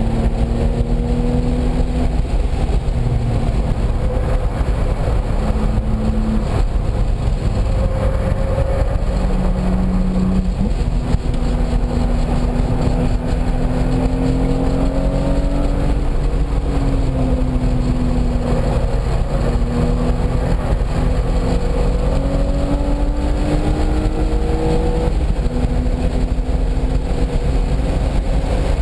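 Car engine being driven hard at lap speed. Its pitch climbs slowly under acceleration and steps down at several gear changes, over a steady rush of road and wind noise.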